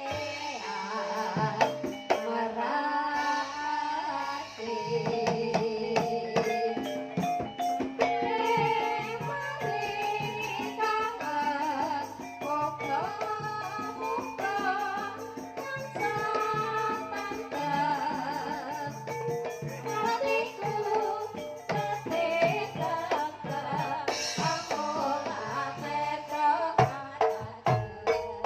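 Javanese traditional ensemble music with hand drumming and tuned percussion, the kind of accompaniment a sinden sings with.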